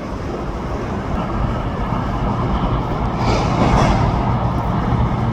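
A motor vehicle running close by: a steady low engine hum with a rumble of road noise that swells and turns hissier about three seconds in, as if passing.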